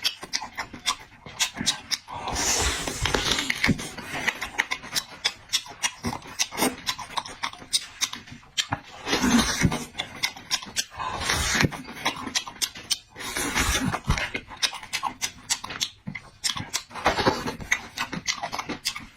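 Close-miked eating: rapid wet chewing and lip-smacking made of many quick clicks, with a few longer rushing mouth sounds.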